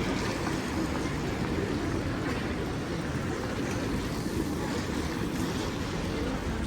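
Steady rushing noise with a heavy, uneven low rumble and a fainter hiss above it, as from wind buffeting the microphone while riding.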